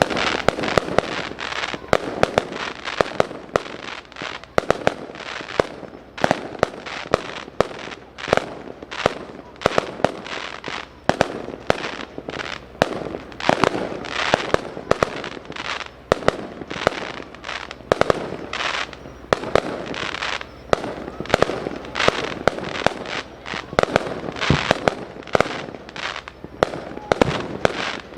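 Fireworks display: a rapid, continuous barrage of aerial shell bursts, several bangs a second, each ringing out over a steady crackle.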